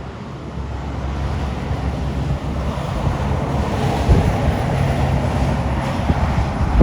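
Heavy truck driving past, its diesel engine running under a growing wash of tyre and road noise; the sound cuts off suddenly at the end.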